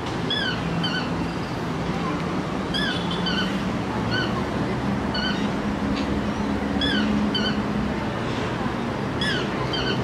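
A bird chirping in short, repeated notes, about one or two a second, with an occasional quick downward-slurred call, over a steady low rushing background noise.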